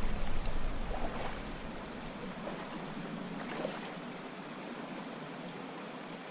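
Creek water running steadily, with a low rumble in the first second or so.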